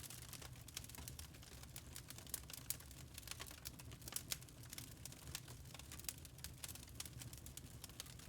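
Wood fire crackling in a fireplace: frequent irregular sharp pops and snaps over a low steady rumble of the burning.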